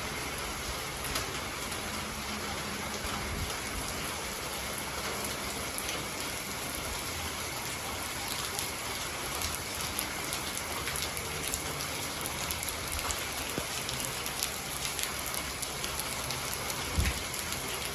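Steady rain falling on wet paved ground, an even hiss dotted with many small drop ticks and splashes. A single low thump near the end.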